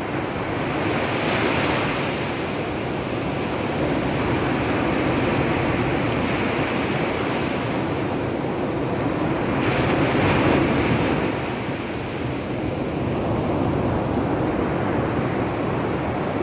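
Pacific surf breaking and washing up on a sand beach: a steady rushing wash that swells louder twice, about a second and a half in and again around ten seconds in.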